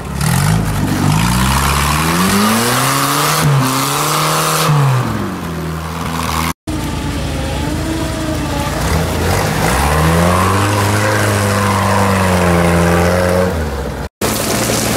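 UAZ off-road vehicle engines revving up and down while crawling through a frozen, muddy ditch, the pitch rising and falling again and again. The sound breaks off suddenly about six and a half seconds in and again near the end.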